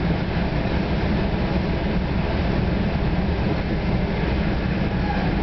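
Steady rumble of an NJ Transit Comet VI multilevel coach running at speed: wheels on the rails and car-body noise heard from inside the passenger cabin, deepest in the low end, with no distinct clicks or squeals.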